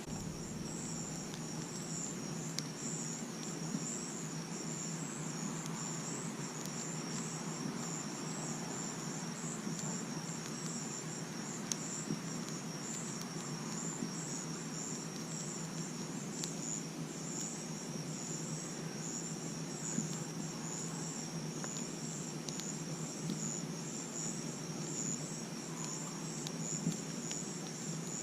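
Crickets chirping in a steady, pulsing high trill, over the low crackle of a campfire with an occasional sharp pop.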